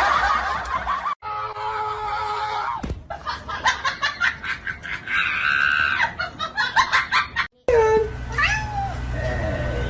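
A string of short clips cut together, ending with a cat meowing a few times. The meows glide down and then up in pitch. Before them comes a run of quick clicks or taps.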